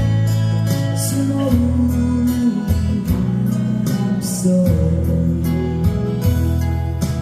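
Live music: a song played on acoustic guitar over held low bass notes that change every second or so.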